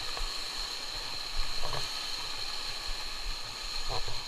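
Steady rush of flowing stream water, with a constant high hiss over it.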